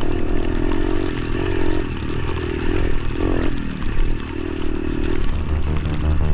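Motorcycle engine running during a ride, its pitch shifting with the throttle and briefly rising and falling about three seconds in, with music underneath.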